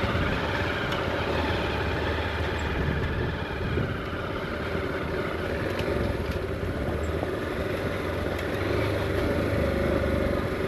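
Motorcycle engine running steadily while riding, with a steady rush of noise over it.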